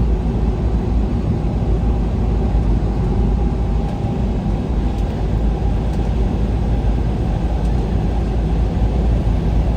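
Steady low rumble of a vehicle driving along a highway: engine and tyre noise, even throughout.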